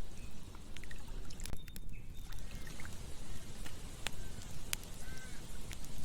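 Campfire burning, with irregular sharp crackles and pops over a steady low rumble, and a few faint short chirps in the background.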